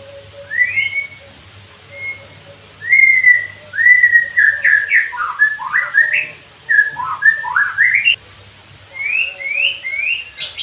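White-rumped shama (murai batu) singing: a run of loud whistled phrases with rising and falling slurs, a short pause about eight seconds in, then three quick rising whistles near the end.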